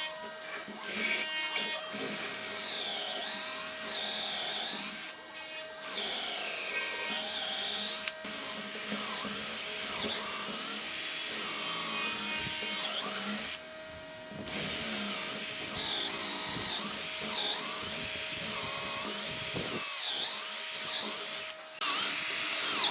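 A handheld power tool whining as it works wood, its pitch dipping and rising again and again under load, with three brief pauses, over background music.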